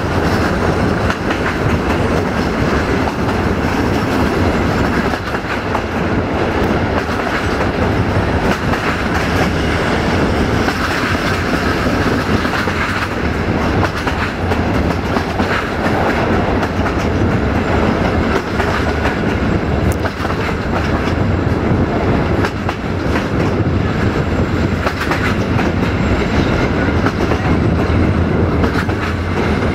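Passenger train running along the track: steady rolling noise of the carriage with wheels clattering over the rails and a steady low drone underneath.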